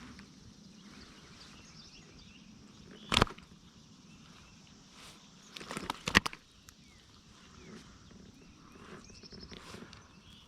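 Handling noises in a fishing kayak while a bass is measured: a sharp knock about three seconds in, then a quick run of clattering knocks around six seconds. Faint high chirping is heard underneath.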